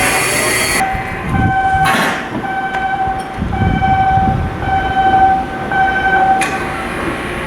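Electronic warning alarm beeping a steady tone about once a second, over a low machinery rumble. A loud hiss cuts off about a second in.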